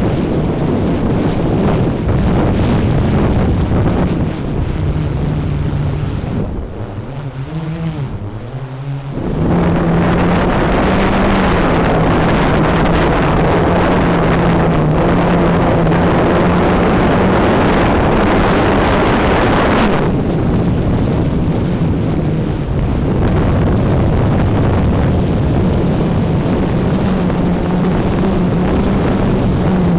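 DJI Mavic 3 Pro quadcopter drone's propellers humming steadily. About seven to nine seconds in, the hum quietens and wavers up and down in pitch. A louder rushing noise rides over it from about ten to twenty seconds in.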